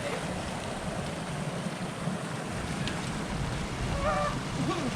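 Steady rushing of flowing creek water mixed with wind noise. About four seconds in comes a short high call with a quick rise and fall in pitch.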